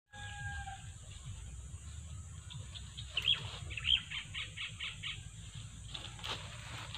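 A bird chirping outdoors in a quick run of high notes, about five a second, preceded by a short steady whistled note, over a low rumble of wind on the microphone.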